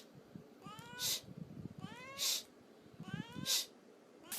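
A domestic cat meowing three times, each call rising in pitch and ending in a short harsh, hissy burst.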